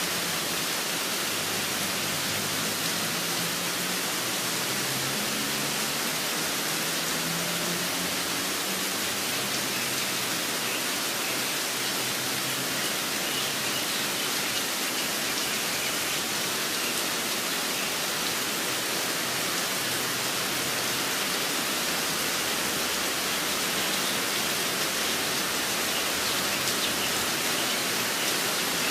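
Steady rain falling, an even hiss throughout, with faint low tones fading away over the first several seconds.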